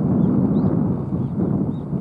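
Wind buffeting the microphone, a steady low rumble, with faint short high chirps from a small bird repeating about twice a second.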